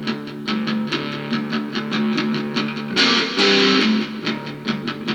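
Rock band playing an instrumental passage: a guitar riff over bass and a steady drum beat, with a louder strummed guitar section about three seconds in.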